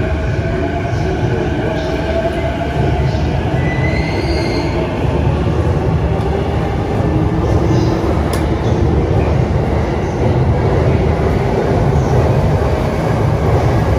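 Saikyo Line E233-7000 series electric commuter train running alongside the platform: a steady loud rumble of wheels on rails, with whining and squealing tones over it.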